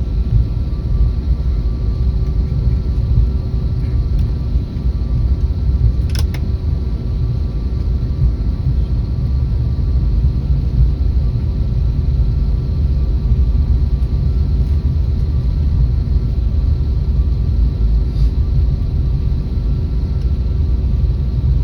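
Airbus A321neo jet engines running at a steady low power: a constant low rumble with a steady hum of fixed tones on top. One brief click about six seconds in.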